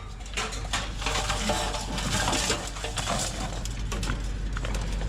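Scrap metal clanking and rattling, a dense run of small knocks and clatters, as pieces of a metal grill are handled and shifted in a pile of scrap.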